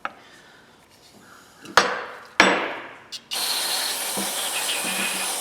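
Two sharp knocks of metal tools set down on a workbench, about half a second apart, each with a short ring. From about three seconds in comes a steady hiss of an aerosol spray, used to wash grit out of the wrenches.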